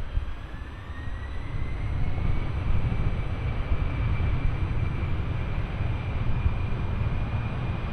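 Jet airliner engines spooling up to takeoff power, a whine rising over the first few seconds and then holding steady over a heavy rumble.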